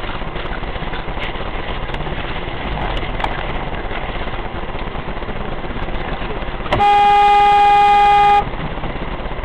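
Dash-cam driving noise, broken about two-thirds of the way in by a single loud, steady one-note beep of about a second and a half that cuts off sharply.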